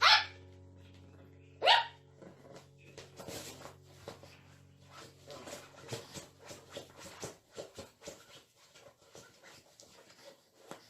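A dog barks twice, two short sharp barks falling in pitch about a second and a half apart, followed by light scattered ticks and taps.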